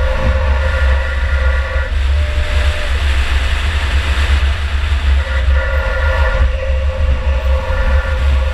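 2004 Chevy Impala enduro car driving at race pace, heard from inside the car: heavy engine and road rumble with a steady whine over it. The whine drops out about two seconds in and comes back about five and a half seconds in.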